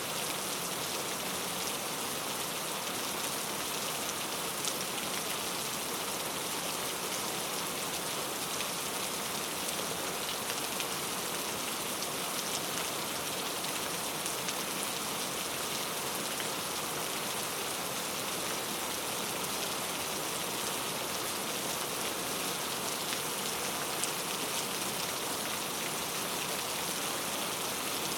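Rainforest rain falling steadily: an even hiss with a few sharper drop ticks here and there.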